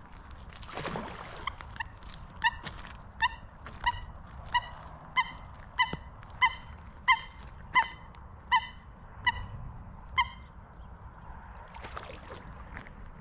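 A bird calling in a steady series of about fourteen short, evenly spaced calls, roughly one and a half a second. The calls start about a second and a half in and stop about ten seconds in.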